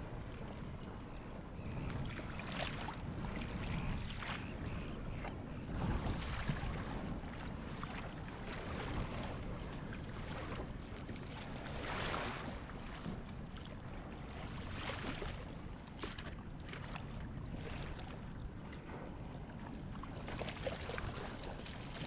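Water sloshing and splashing around a kayak, in irregular swells every few seconds, with wind rumbling on the microphone.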